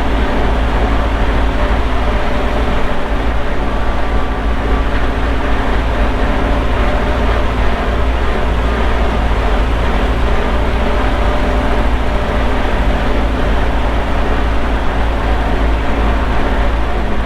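Antique tractor engine running steadily at an even speed, with a heavy low rumble underneath.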